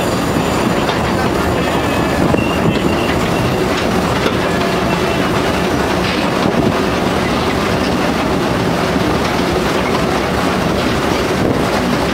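Small theme-park train running along its track, heard from an open-sided passenger carriage: a steady rumble of wheels on rail with a few scattered clacks.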